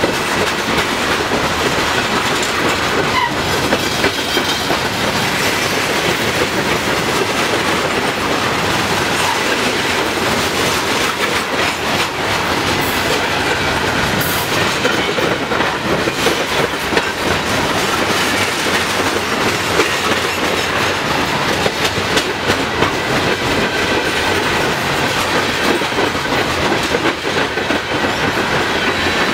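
Loaded open hopper cars of a freight train rolling steadily past close by: a continuous rumble with the clickety-clack of wheels over rail joints.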